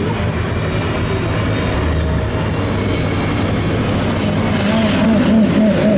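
Supercar engines running as cars drive past on a wet track, a steady low drone over a hiss of rain and tyre spray. Near the end an engine note with a wavering pitch grows louder as a car comes by.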